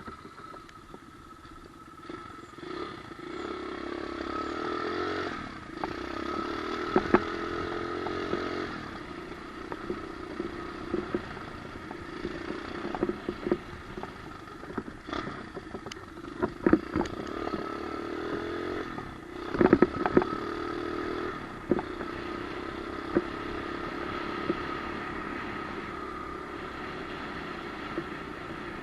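Pit bike engine running, rising and falling in level as it is throttled on and off, with sharp knocks and rattles, the loudest about a third of the way in and again around two-thirds through.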